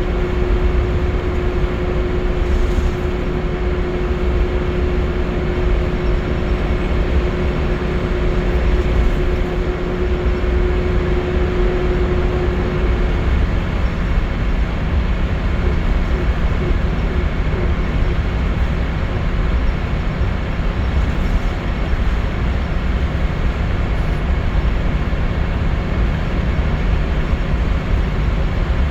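Scania L94UB Wright Solar single-deck bus heard from inside the saloon while under way: steady engine rumble and road noise, with a steady whine that stops about halfway through.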